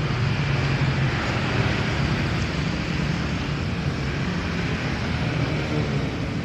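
Steady road traffic noise, an even rumble of passing vehicles with no distinct events.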